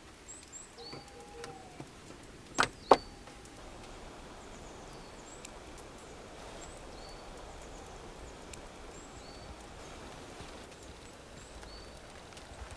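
Two sharp knocks a fraction of a second apart, about two and a half seconds in, over a steady outdoor background with small birds chirping now and then.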